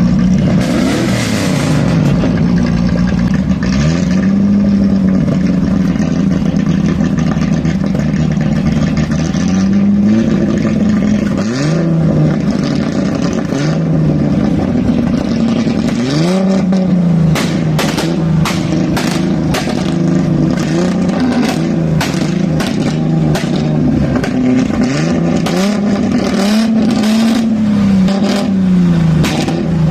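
Tuned car engines running loud, revved in repeated short blips that rise and fall in pitch. From just over halfway in, a rapid run of sharp cracks and clicks sounds over the engine noise.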